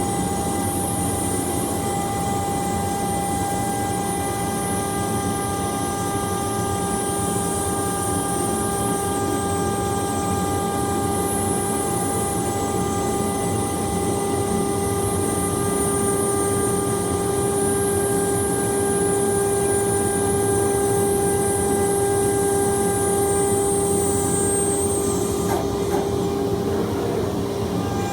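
CNC milling machine running steadily as it cuts a 3 mm aluminium panel: a steady whine with several held tones over a constant noise and hiss.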